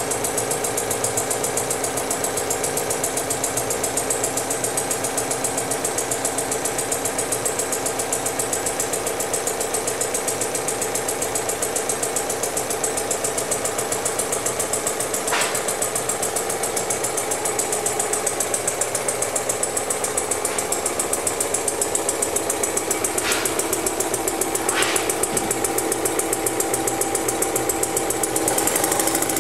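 Home-built VATOC model engine running with a fast, even mechanical clatter. There are a few brief sharp ticks over it about halfway through and again past the two-thirds mark.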